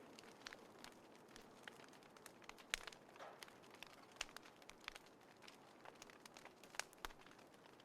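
Wood fire crackling in a small fire pit: scattered, irregular sharp pops and snaps over a faint hiss, the loudest a little before the middle and again near the end.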